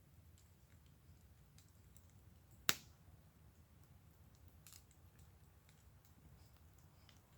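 Wood fire burning in a fire pit, crackling faintly with scattered small ticks and one sharp pop about three seconds in, over a low steady rumble.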